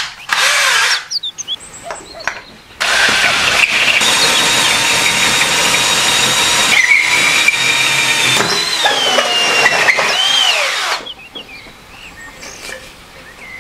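Bosch cordless drill spinning a diamond-grit hole saw, grinding into the end of a white can, with a high squeal that wavers and slides in pitch. A brief spin of the drill comes first, then about eight seconds of steady cutting from about three seconds in.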